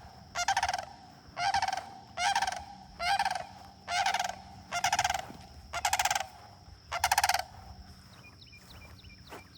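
Sandhill cranes calling loudly in a run of about eight rolling, rattling calls, roughly one a second, that stop near the end. These are the cranes' aggressive calls as they fight among themselves.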